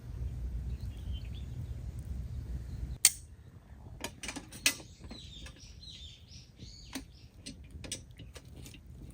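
Small birds chirping in short high calls, with scattered sharp clicks and snaps. A low rumble in the first three seconds cuts off abruptly.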